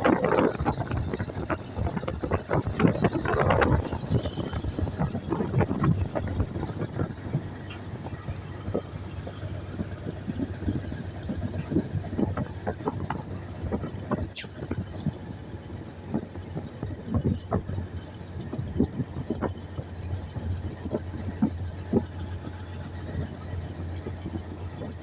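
Mobile crane's engine running steadily, with scattered knocks and clicks and one sharp click about fourteen seconds in.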